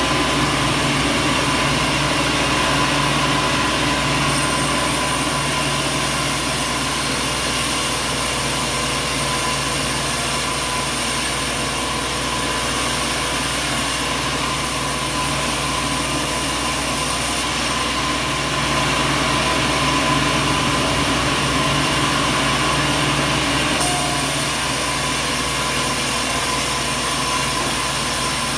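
Sawmill machinery running: a steady mechanical drone with a constant hum, unbroken and without separate cutting strokes or impacts.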